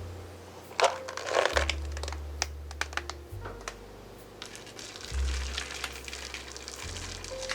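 Plastic packaging crinkling and crackling as it is handled, loudest about a second in, with scattered crackles after, over background music with low bass notes.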